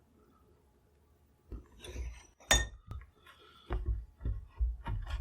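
Metal hand tools being handled on a workbench: a series of knocks and clinks starting about a second and a half in, the loudest a sharp, briefly ringing metallic clink, with more knocks near the end.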